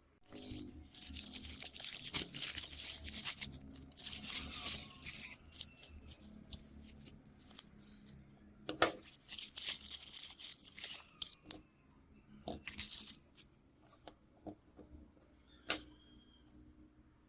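Hand work on a phone: rough, crackling tearing and peeling sounds in several stretches, with a few sharp clicks about 9, 12½ and 16 seconds in.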